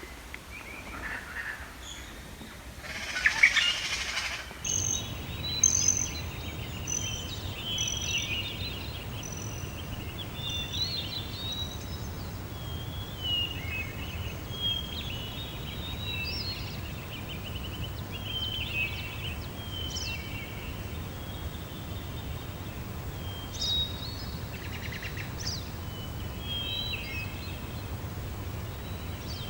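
Small birds chirping and singing with many short, overlapping calls, over a steady low rumble. Before the birdsong starts there is a brief loud rush of noise, the loudest thing here.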